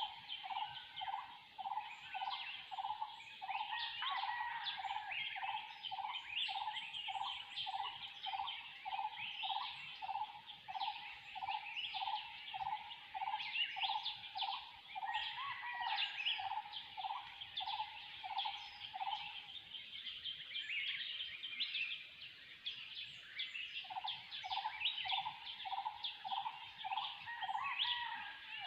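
A forest bird chorus: one bird repeats a single hollow low note about twice a second, pauses for a few seconds about two-thirds of the way through, then starts again. Behind it, many other birds give a dense chatter of short, high chirps.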